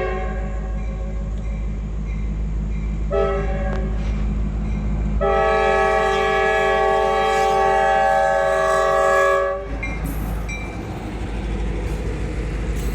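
Diesel locomotive's chime air horn sounding a short blast about three seconds in, then a long blast of about four seconds, the close of a grade-crossing signal. A steady rumble of the passing train runs underneath.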